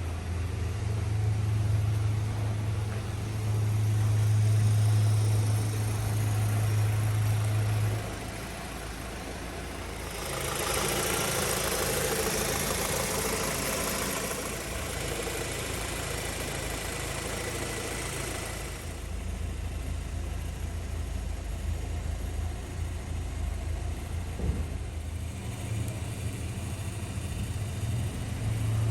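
Rover 75 Tourer's engine running at idle with a steady low hum. From about a third of the way in there is a broad rushing noise for several seconds, then quieter steady running.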